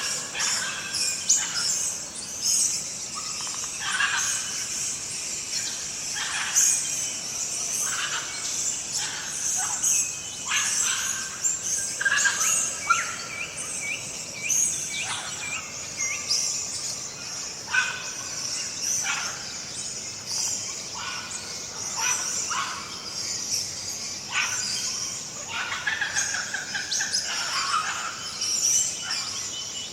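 Daytime countryside ambience: many birds chirping and calling over a steady high insect drone.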